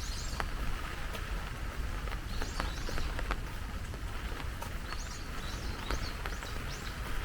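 Steady rain with scattered drops ticking close by, while a small bird gives short high chirps several times, more of them in the second half; a low rumble runs underneath.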